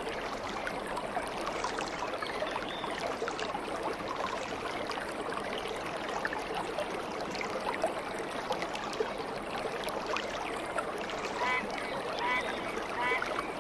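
Stream water flowing and babbling steadily. Near the end, a bird gives a short call three times.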